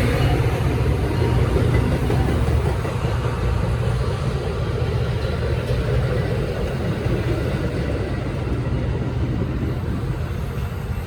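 Diesel locomotive rumbling steadily as a train moves along the line, slowly fading.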